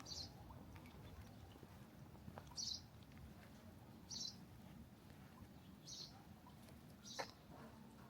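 A bird giving a short, high call, repeated five times about every one and a half seconds.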